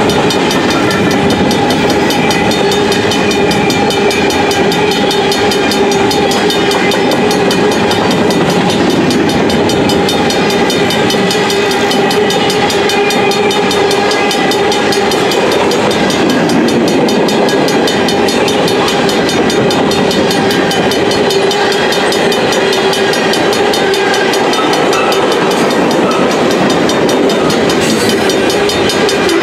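Freight cars (open gondolas, then tank cars) of a mixed freight train rolling past close by at track speed: a loud, steady noise of wheels on rail with clickety-clack, with steady ringing tones running through it.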